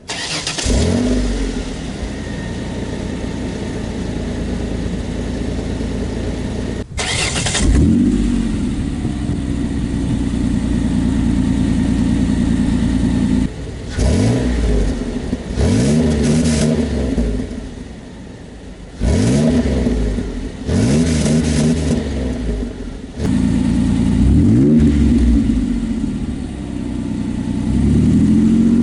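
2004 Ford Explorer Sport Trac's 4.0-litre V6 running through a new Magnaflow muffler and side-exit dual exhaust tip, idling and blipped about ten times, each rev rising and falling quickly.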